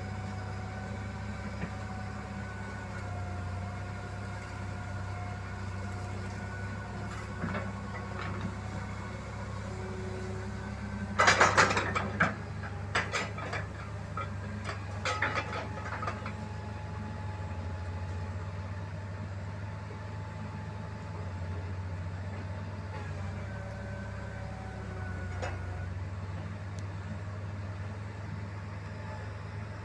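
An engine running steadily, with a cluster of loud clattering knocks about eleven to sixteen seconds in.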